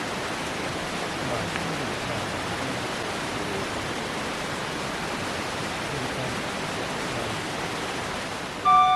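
Steady rushing of a mountain headwater stream, an even wash of water noise. A flute-like melody of background music cuts in near the end.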